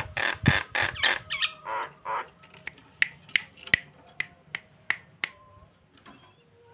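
Jalak (starling) calling: a rapid run of harsh chattering notes, then sharp clicking calls at about three a second that stop a little after five seconds.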